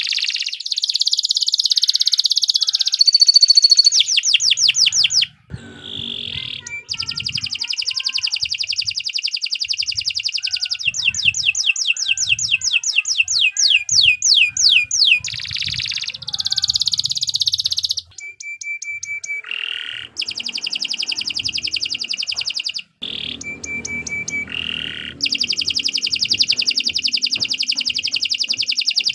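Domestic canary singing a long, unbroken run of fast repeated trills and rolling phrases, pausing only briefly a few times.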